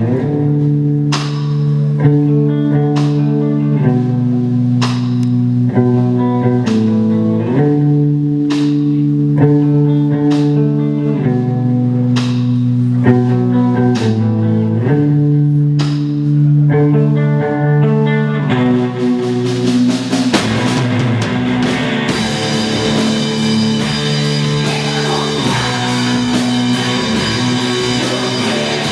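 Live rock band playing: held guitar chords over drum hits about once a second, then about nineteen seconds in the full band comes in and the sound turns dense and heavy.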